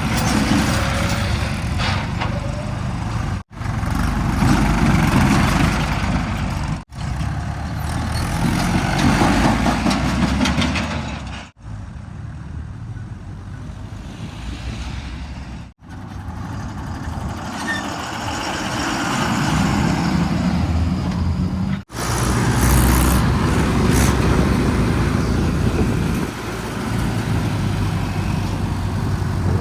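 Heavy diesel machinery running at a worksite, with a deep steady engine rumble. It comes in short clips cut together, breaking off sharply every few seconds.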